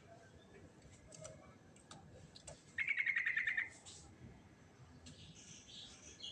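Yellow-vented bulbul (trucukan) singing: a fast trill of about ten even notes, lasting under a second, about three seconds in, followed by softer, higher chattering notes near the end.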